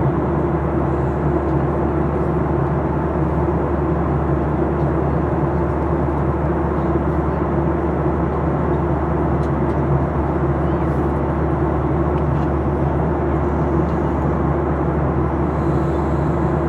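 Steady cabin noise inside a Boeing 737-800, its CFM56-7B turbofan engines and the airflow making a constant hum with a broad rushing noise over it. It neither rises nor falls.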